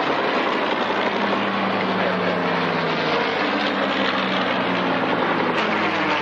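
Piston-engined fighter aircraft flying overhead, a steady loud engine drone whose pitch shifts slightly as they manoeuvre.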